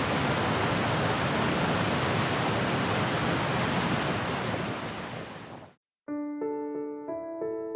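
Steady rushing roar of a large waterfall that fades out about five and a half seconds in, followed after a brief silence by bright keyboard music with ringing notes.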